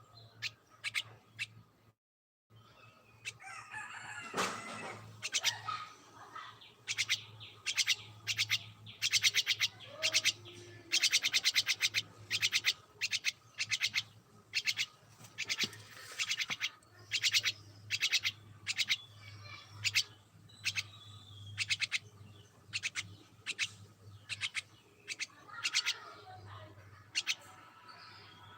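Pet birds chirping in rapid series of short, sharp notes, over a low steady hum.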